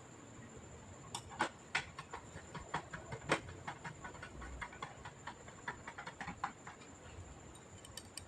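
Irregular light clicks and taps, several a second at the busiest, from hands working on a disassembled all-in-one PC and its small parts.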